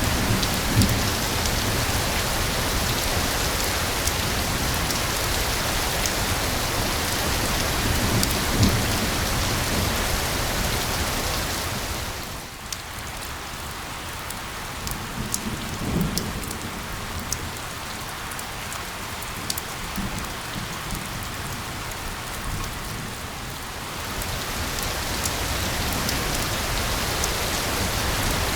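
Steady hiss of rain. About twelve seconds in it softens for roughly ten seconds, with single drops ticking sharply, then swells back. A few brief low thuds stand out.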